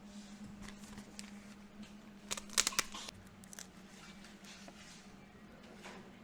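Light handling noises: rustling and scattered clicks, with a brief cluster of sharp crinkling ticks about two and a half seconds in, over a steady low hum.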